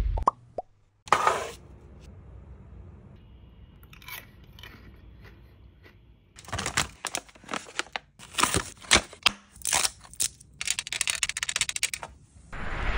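Crisp crunching and chewing of airy freeze-dried candy, a dense run of sharp crunches through the second half. A brief noisy swish comes about a second in.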